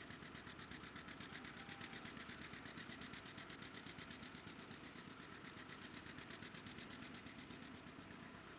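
An engine running steadily at low volume, with a fast, even pulse of about ten beats a second.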